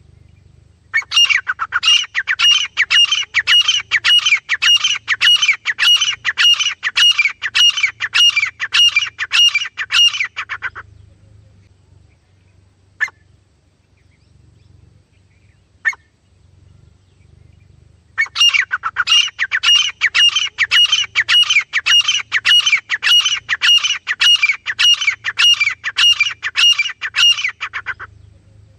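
Francolin (teetar) calling: two long bouts of loud, harsh call notes repeated about twice a second, each bout lasting around ten seconds. Between the bouts is a pause broken by a couple of single short notes.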